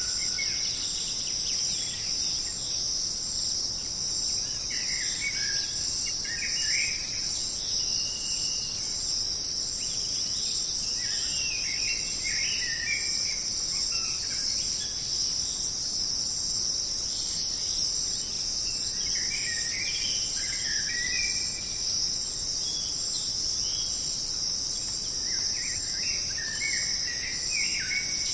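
Jungle insect chorus: a steady, high-pitched drone that never lets up. Groups of short bird calls come and go over it, near the start, around five to six seconds in, again at eleven to thirteen, at nineteen to twenty-one and at twenty-five to twenty-seven seconds.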